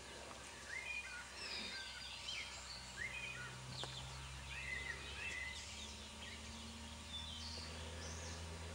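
Several songbirds singing: many short chirps and whistles, faint and overlapping.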